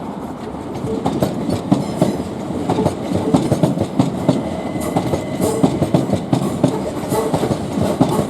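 Southern Class 377 electric multiple unit running past, its wheels clattering over the track in a steady, irregular run of clicks and knocks.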